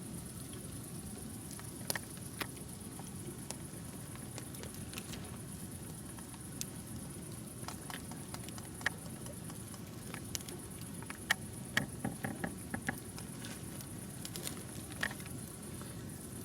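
Pieces of chocolate being pressed by hand into slits cut in a banana: scattered soft clicks and crackles, a cluster of them about two-thirds of the way in, over a low rustle and a faint steady high hiss.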